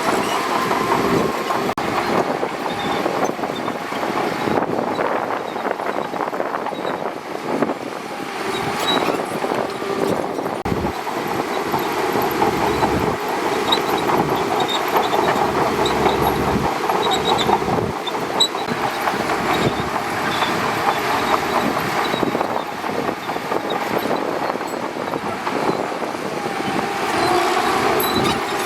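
Shantui DH17C2 crawler bulldozer running steadily under work, its diesel engine mixed with a dense clatter from the steel tracks.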